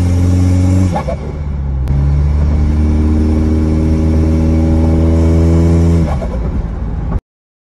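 Engine of a turbo-upgraded Toyota heard from inside the cabin while driving, a steady loud drone under way. The drone changes pitch abruptly about a second in and again a second later, then fades and cuts off suddenly near the end.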